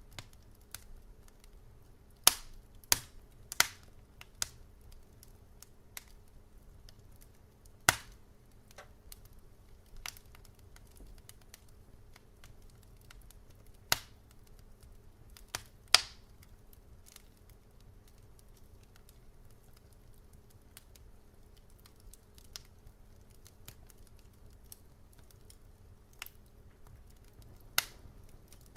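Wood fire burning in a fireplace, crackling with irregular sharp pops, a few loud ones among many faint ticks, over a faint steady low hum.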